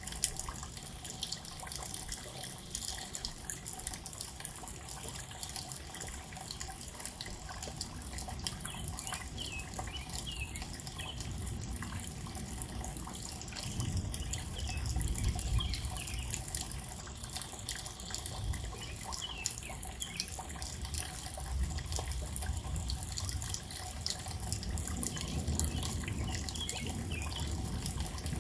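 Rain falling steadily with many close drips, and a low rumble that swells about halfway through and again near the end.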